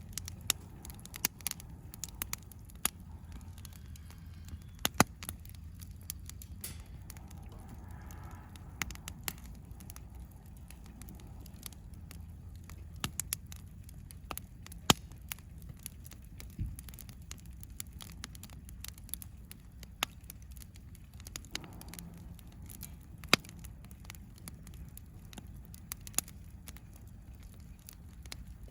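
Wood campfire crackling, with scattered sharp pops and a few louder snaps, over a low steady background rumble.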